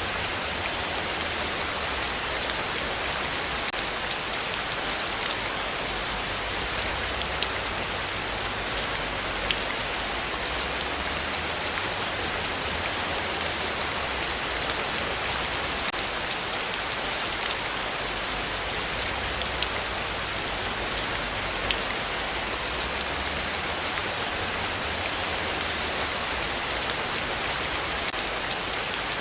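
Heavy rain falling steadily, a dense even hiss with many fine drop patters and a faint low rumble underneath.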